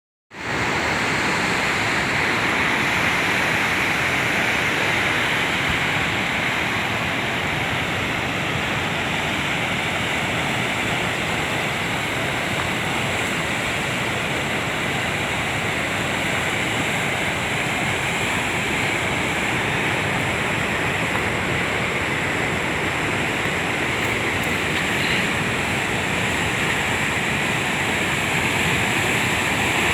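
Fast-flowing river water rushing steadily, rising from silence within the first half second.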